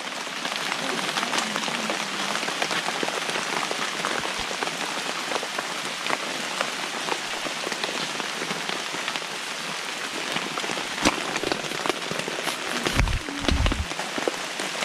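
Steady rain falling on a surface, with many single drops ticking through it. A few low thumps come near the end.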